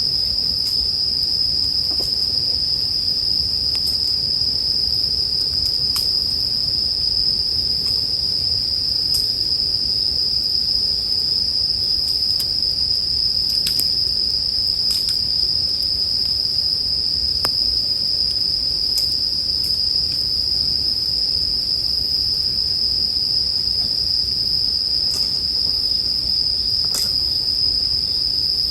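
Bell crickets (suzumushi) singing in a steady, unbroken high-pitched trill, with a scattering of sharp crackles and pops from a campfire every few seconds.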